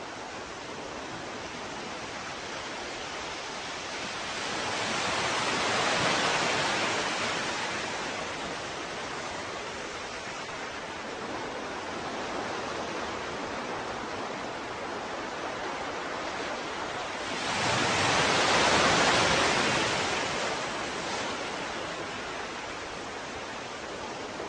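Ocean surf: a steady hiss of water with two waves swelling up louder and washing back, the first building gradually about six seconds in, the second rising more abruptly about two-thirds of the way through.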